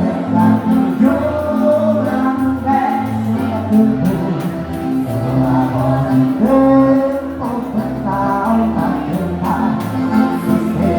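Live gaúcho dance music: an accordion-led band with a repeating bass line, between sung lines of a Portuguese-language song.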